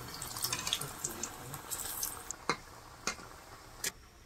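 Raw-banana koftas frying in hot oil in a kadai, a steady sizzle full of small crackles that eases off in the second half. Three sharp taps come through it, the last near the end.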